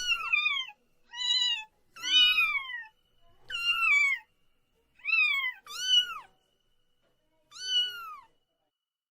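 Cat meowing repeatedly: about seven high-pitched meows, each dropping in pitch at the end, with short pauses between them.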